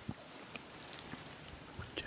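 Faint chewing of soft baked sweet potato, with a few small scattered clicks.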